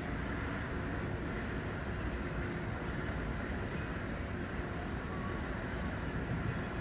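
Steady rushing noise of wind and sea passing a cruise ship under way, heaviest in the low end.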